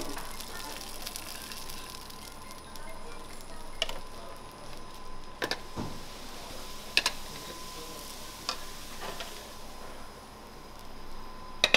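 Künefe sizzling in round metal trays on gas burners, a steady frying hiss, with several sharp metal clinks as the trays are gripped with pliers, turned over and set back down.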